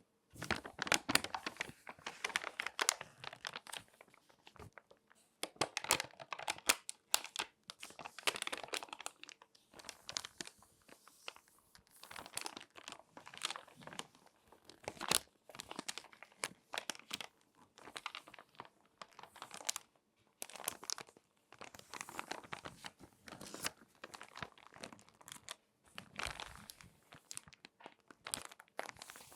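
Glossy magazine pages being folded and crinkled by hand close to the microphone: irregular crackling and rustling in bursts, with brief pauses.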